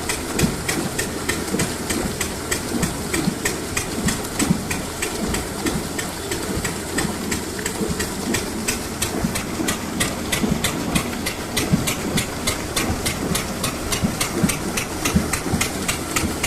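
Diesel engine running steadily as it pumps water from a well, with an even knock of about four beats a second over a rushing hiss.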